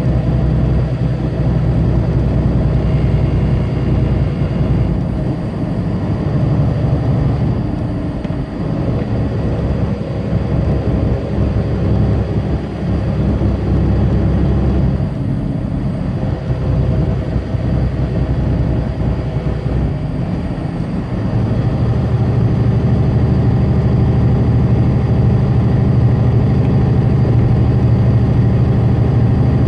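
Tractor-trailer's diesel engine running under way with road noise, heard from the truck. The low engine drone shifts a few times and becomes louder and steadier in the last third.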